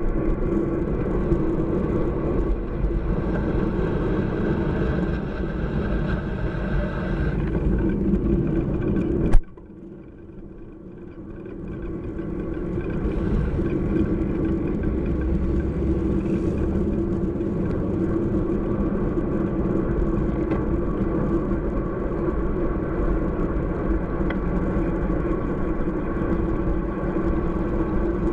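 Truck engine running steadily. About nine seconds in there is a sharp click, and the sound suddenly drops away. Over the next few seconds it builds back up to the same steady running sound.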